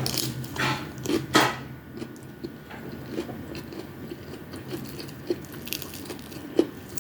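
A person biting and chewing fried tamban fish with rice: a few loud crunchy bites in the first second and a half, then softer chewing with small mouth clicks.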